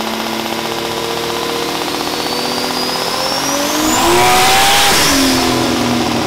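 Nissan Skyline R32 GT-R's single-turbo RB26 straight-six revving on a chassis dyno. The revs climb under load with a rising turbo whistle, are loudest about four to five seconds in, then fall back near the end.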